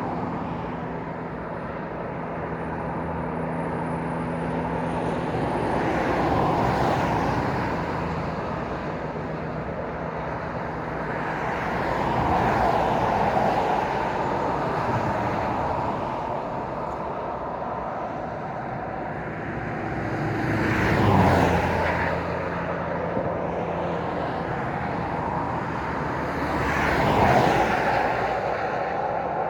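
Road traffic passing: a continuous rush of tyre and engine noise that swells and fades as vehicles go by, with four louder passes, the sharpest a little past two-thirds of the way in. A steady low engine hum runs under the first third.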